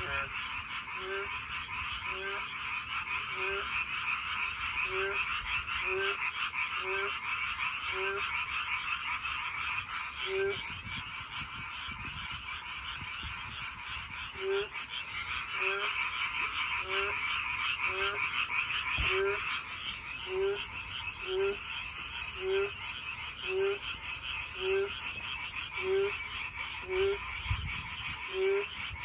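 Frogs calling for mates: a dense, continuous chorus of high trilling calls, with one lower-pitched frog giving a short croak about once a second throughout.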